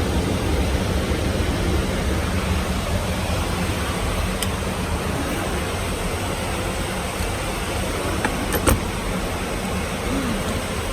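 Steady cabin noise of a Dassault Falcon 50 business jet in cruise: an even rush of airflow over a low engine drone, with a couple of faint clicks and one sharper click about eight and a half seconds in.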